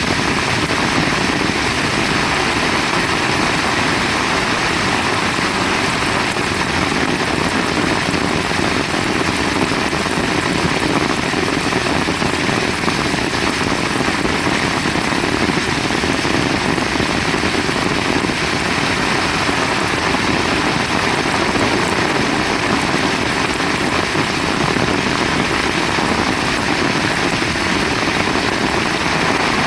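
Heavy rain falling steadily as a dense, even downpour with no letup.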